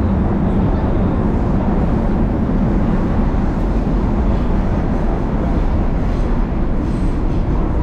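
Passenger train running, heard from inside the car: a steady loud rumble of wheels and running gear on the rails.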